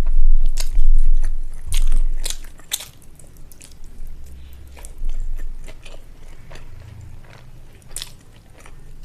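Close-miked mukbang eating of rice and egg curry: chewing and mouth sounds with sharp smacks and clicks, loudest in the first two and a half seconds and softer after.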